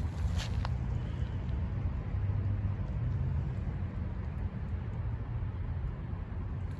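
2007 Yamaha YZF-R1's inline-four engine idling through a full Akrapovic exhaust system: a deep, steady note with no revving. A few faint clicks about half a second in.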